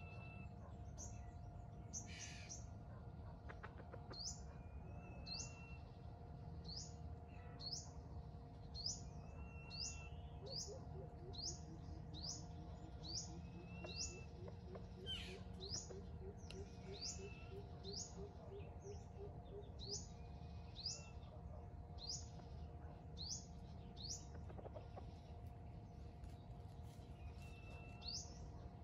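Wild birds chirping faintly: a short, high, falling chirp repeated about once a second, with a lower whistled note every few seconds. A low, rapid pulsing call runs for several seconds in the middle, over a steady faint hum.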